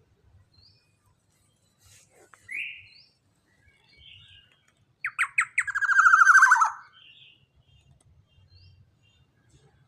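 Young black-naped oriole calling: a short rising note about two and a half seconds in, then about halfway through a few sharp notes running into a loud, harsh, rapidly pulsed call of about a second and a half.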